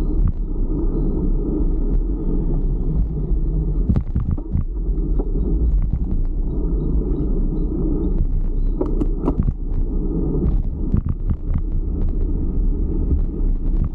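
Steady low rumble of wind buffeting the microphone and road noise while riding a fixed-gear bicycle, with scattered sharp knocks and rattles from bumps in the road.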